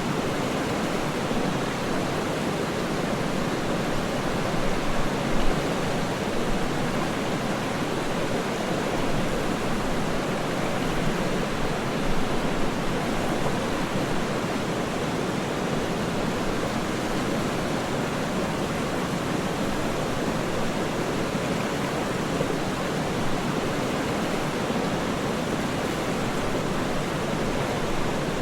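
Waterfall rushing in an even, unbroken roar, with slight brief swells in loudness now and then.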